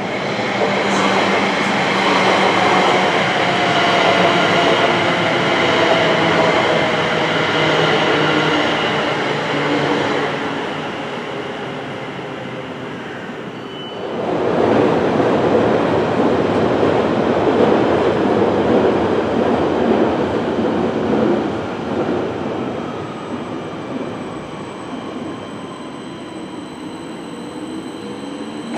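Class 321 electric multiple-unit trains running on the line: first a whine of several tones that slowly falls in pitch as a train slows, fading out. Then a dense, steady rushing rumble of a train on the rails for several seconds, settling to a quieter hum with faint wheel squeal as another unit draws in near the end.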